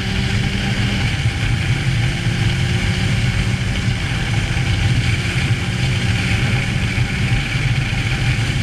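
Honda CBR600 sportbike's inline-four engine running steadily, its note shifting slightly about a second in.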